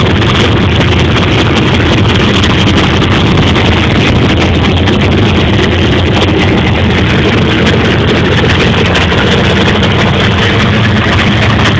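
Twin-turbo 440 cubic-inch LSX V8 of a modified Holden VE Commodore SS idling steadily and loud, with no revving.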